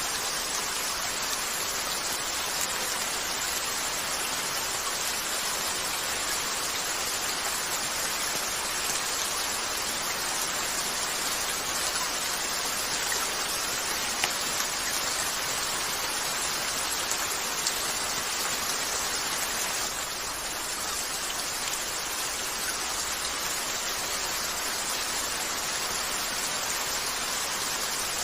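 Steady rain falling on a window glass: a dense, even hiss with a few faint ticks.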